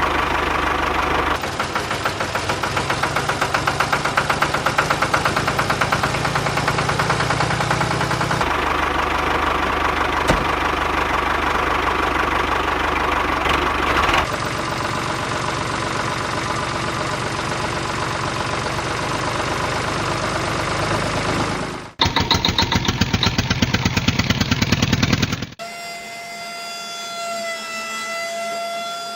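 Small motor of a miniature model tractor running with a rapid, even chugging. The sound changes abruptly several times between cut-together shots, and near the end it gives way to a quieter, thin steady whine.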